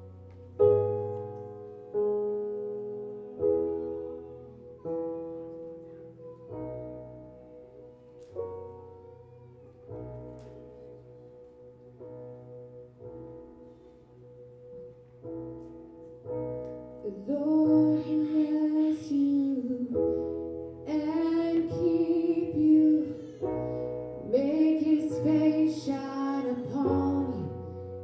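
Worship music: a piano plays slow chords, each struck and left to fade, and about halfway through a woman's voice begins singing over it as the music grows louder.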